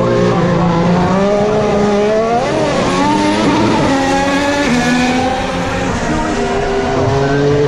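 2018 Formula 1 cars' 1.6-litre turbo-hybrid V6 engines running through a chicane. Engine pitch steps down in stages through the middle, as with downshifts, then rises again near the end as a car accelerates away.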